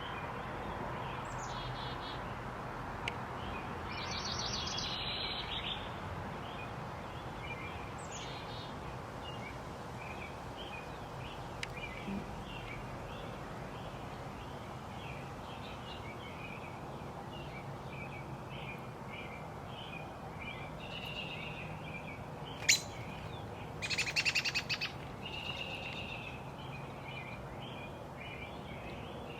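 Small backyard songbirds chirping and calling, with a quick rattling trill about four seconds in and another late on, over a steady background hiss. A single sharp click stands out a little after two-thirds of the way through.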